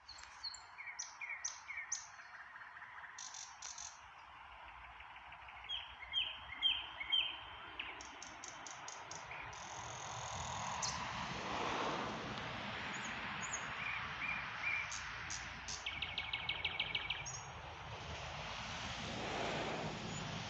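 Nightingale singing a varied song of separate phrases: clear whistles, runs of repeated notes, and a fast rattling trill about two-thirds of the way through. Behind it is a steady hiss that swells twice.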